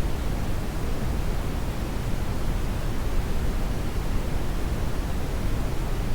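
Steady synthetic brown noise: an even, deep hiss weighted toward the low end, with no changes or events.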